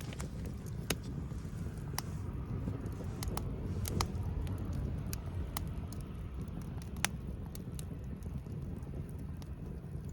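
Campfire crackling: scattered sharp pops at irregular intervals over a steady low rumble.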